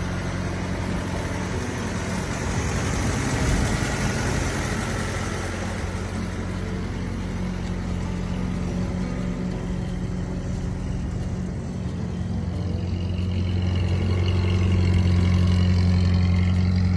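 A car engine running steadily with a low, even hum, getting louder over a few seconds past the middle.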